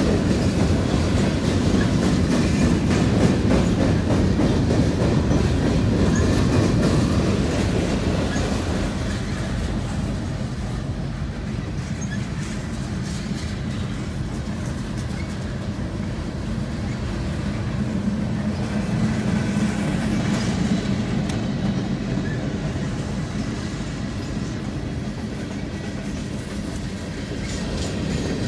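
Freight train cars rolling past, their steel wheels clacking over rail joints in a steady run. The sound turns quieter and duller through the middle stretch, heard from inside a car at the crossing, then comes up again near the end.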